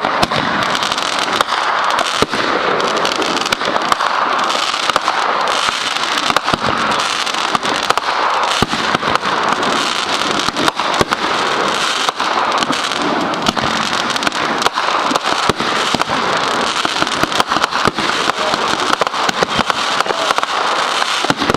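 Consumer fireworks finale going off: a dense, continuous crackling made of many rapid sharp pops over a steady hiss.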